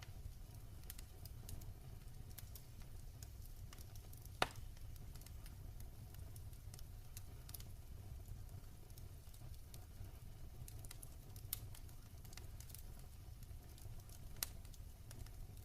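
Wood fire burning in a fireplace, crackling with frequent small ticks and a few louder pops, the sharpest about four seconds in and near the end, over a low steady rumble.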